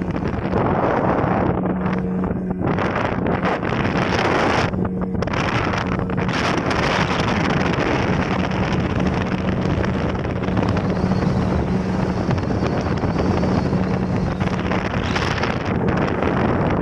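Speedboat engine running steadily under way, its hum holding one pitch, with wind buffeting the microphone.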